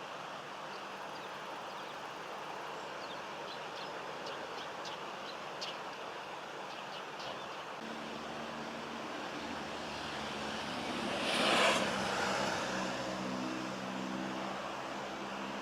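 Car engine and traffic: a low steady engine hum comes in about halfway, and a vehicle passes, loudest about three-quarters of the way through, over a steady background hiss. A run of faint high ticks sounds in the first half.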